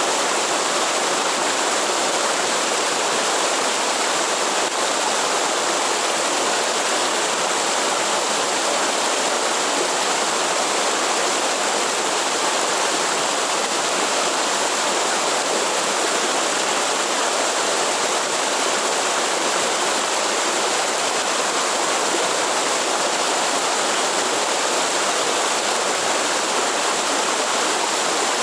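Waterfall rushing steadily: an even, unbroken wash of falling water with no other events.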